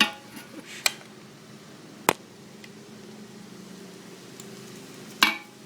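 Four separate sharp metal clinks and knocks from hand tools, a ratchet with socket and extension, while the oil drain bolt is being broken loose.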